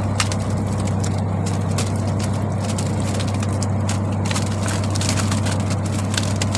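A fishing boat's engine running steadily with a low hum, with irregular clicks and knocks over it.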